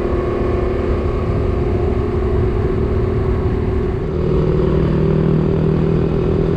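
Motorcycle engine running steadily as the bike is ridden. A lower engine tone joins about four seconds in.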